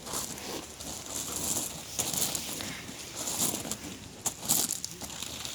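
Campfire of split firewood burning, crackling with irregular sharp pops and snaps over a steady hiss.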